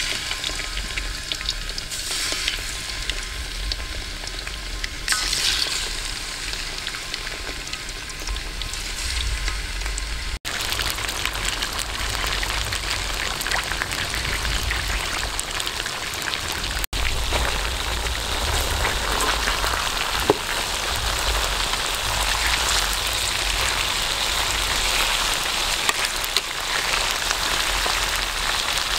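Stingray pieces frying in hot oil in a metal wok: a steady sizzle of bubbling oil that grows fuller after about ten seconds, cutting out briefly twice.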